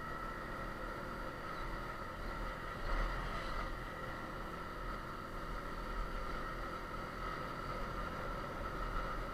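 Yamaha TTR 250 trail bike's single-cylinder four-stroke engine running at a steady speed while riding, with wind rumble on the microphone; a brief louder rise about three seconds in.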